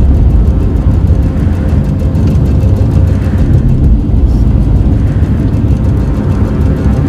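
A car driving at steady speed: a continuous low rumble of road and engine noise.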